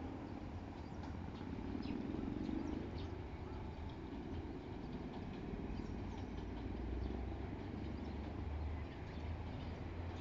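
Chichibu Railway 7800-series electric train (a rebuilt Tokyu 8090 series) running away down the line, its low rumble fading over the first few seconds, with short bird chirps scattered through.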